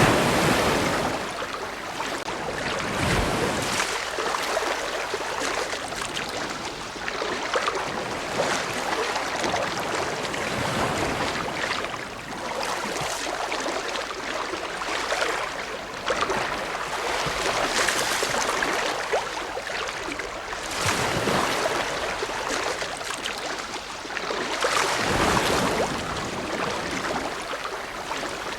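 Ocean waves breaking and washing on the shore, a steady wash of surf that swells with each wave every few seconds.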